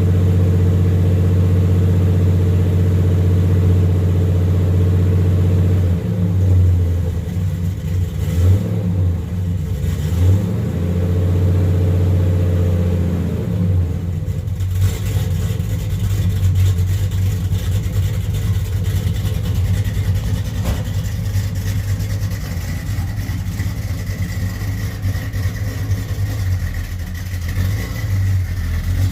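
1978 Chevrolet Malibu's V8 engine idling steadily, then its note rising and falling unevenly from about six seconds in. A steady hiss joins about halfway through.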